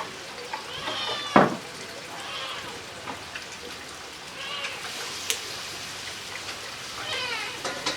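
A cat meowing about four times, each cry short and falling in pitch, over a steady hiss. A sharp knock about a second and a half in is the loudest sound.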